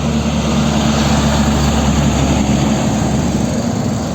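Heavy truck engine running with a steady low drone, its sound starting to fade away near the end.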